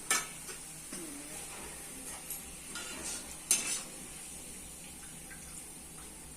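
A metal spoon clinking and scraping against a cooking pot while stirring, a few knocks in the first four seconds, over a faint steady sizzle of frying.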